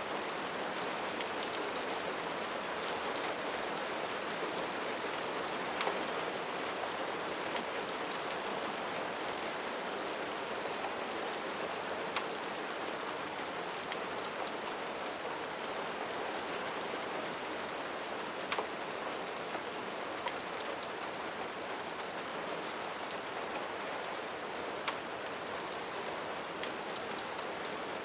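Steady rain falling, an even hiss of drops on a surface, with a few separate sharp ticks standing out now and then.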